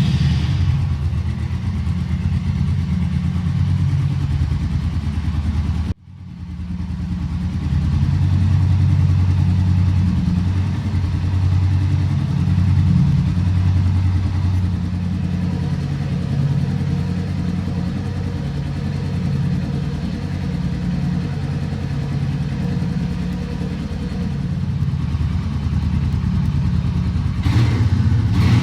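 Royal Enfield Meteor 350's single-cylinder engine running steadily. The sound breaks off sharply for a moment about six seconds in, then resumes.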